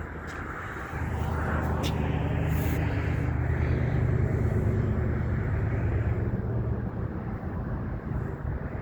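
Low, steady rumble of a large vehicle, swelling about a second in and easing a little near the end.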